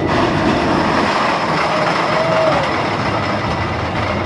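Big Thunder Mountain Railroad mine-train roller coaster running along its track, a dense steady rumble with a brief squeal about two seconds in.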